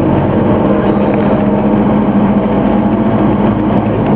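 Scania OmniCity bus diesel engine running steadily, a constant low drone with a held hum.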